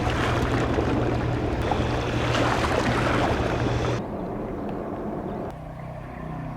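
Container ship passing: a steady low engine hum under a wash of water and wind noise. About four seconds in, the sound drops abruptly to a quieter, lower hum.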